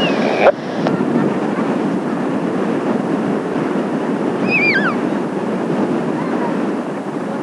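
Steady rushing noise of strong, gusty wind buffeting the microphone. A radio transmission's hiss cuts off about half a second in, and a short whistled call falls in pitch near the middle.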